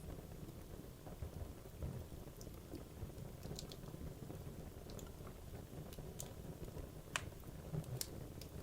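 Wood logs burning in a fireplace: a steady low rumble of flame with scattered sharp crackles and pops, the loudest two about a second apart near the end.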